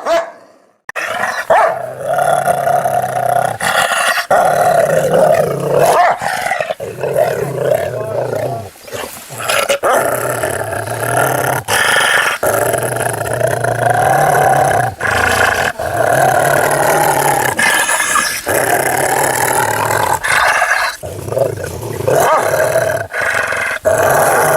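A dog growling almost without pause, with barks mixed in, starting about a second in after a brief silence.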